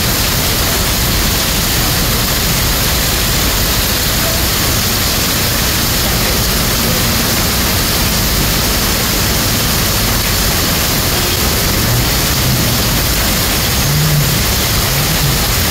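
Heavy rain pouring down on a flooded street: a loud, steady, dense hiss that does not let up.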